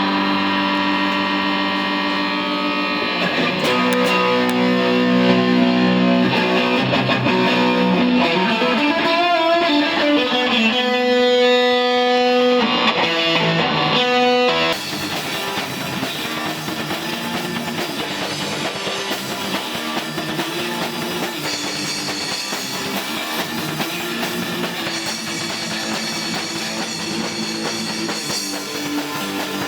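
Electric guitar playing a rock riff with ringing, held notes. About halfway through the sound changes abruptly to busier, brighter playing.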